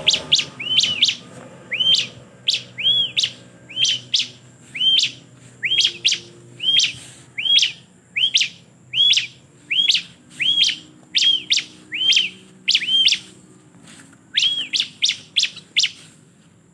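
Bar-winged prinia (ciblek) calling: a long run of short, sharp chirps, about two a second, each a quick up-and-down whistled note, stopping shortly before the end.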